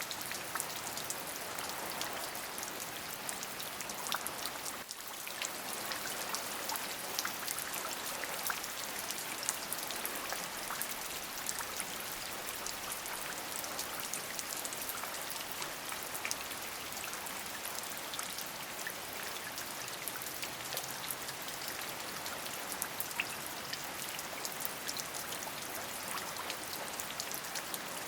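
Steady rain falling, an even hiss of rain with many individual drops ticking through it, with a brief dip in level about five seconds in.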